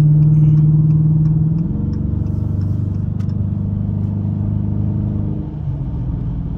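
Dodge Challenger R/T's Hemi V8 running steadily while driving, a low engine drone that drops in pitch about two seconds in and rises back near the end.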